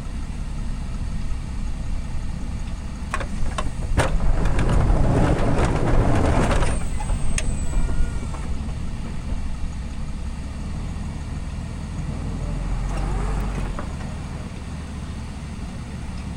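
Cummins diesel engine of a Ram pickup running steadily. A few sharp clicks come a few seconds in, then a louder rush of noise lasting about two seconds.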